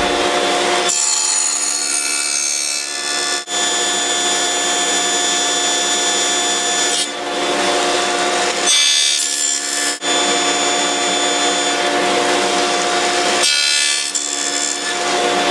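Table saw running with a stack dado blade, giving a steady whine, as it cuts tenon cheeks in wood in repeated passes, with rougher cutting noise rising and falling over each pass.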